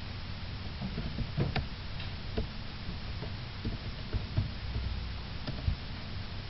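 A dozen or so light, irregularly spaced clicks and taps over a steady low hum.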